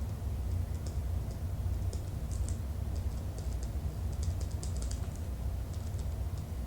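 Typing on a computer keyboard: irregular runs of light key clicks, thickest about four to five seconds in, over a steady low hum.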